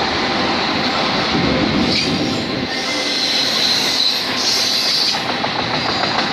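Freight train of autorack cars rolling past close by: a steady rumble of steel wheels on rail, with a high wheel squeal that comes in about two seconds in and peaks a little past the middle.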